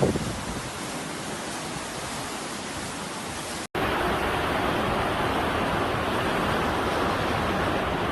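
Steady rush of floodwater, an even noise without any tone. A little under four seconds in it cuts off abruptly for an instant and comes back louder and fuller.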